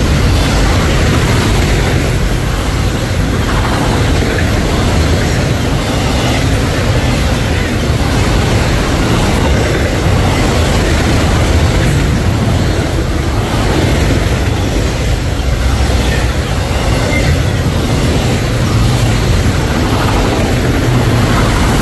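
Norfolk Southern freight train rolling past, a steady, loud rumble of cars on the rails.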